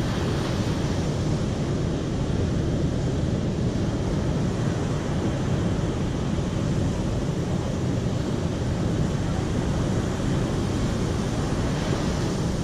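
Steady, unbroken rush of flowing river water, strongest in the low range.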